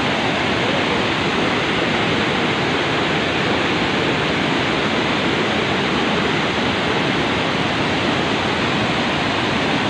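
Steady, loud rush of water pouring down Vazhachal Falls.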